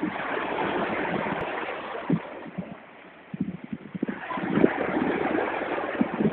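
Wind rushing and buffeting on a phone microphone by the sea, a steady noisy rush with low thumps. It eases about three seconds in and picks up again a second later.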